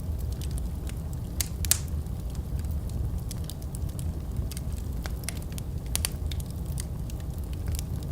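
Wood fire crackling in a fireplace: irregular sharp pops and snaps over a steady low rumble of burning, with a couple of louder pops a second or two in.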